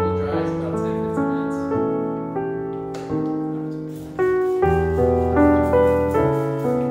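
Background piano music: slow notes and chords, each struck and then slowly fading.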